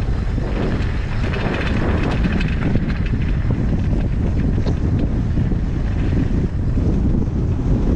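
Wind buffeting the microphone in a steady loud rumble during a fast mountain bike descent, with faint rattling ticks from the bike.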